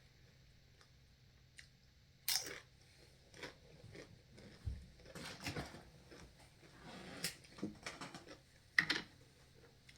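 Crunching and chewing on nacho tortilla chips. There are sharp crunches about two seconds in and near the end, with irregular softer chewing in between.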